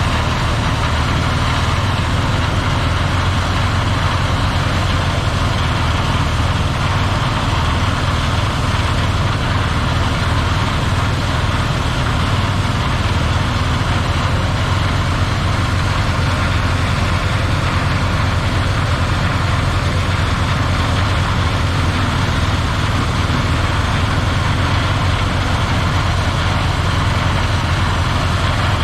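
Claas Lexion 740 combine running steadily, an even engine drone with a broad rushing noise over it and no change in pitch or level.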